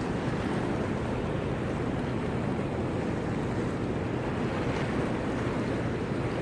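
Steady rush of fast-flowing river water in a dam's tailwater, with the sluice gates releasing.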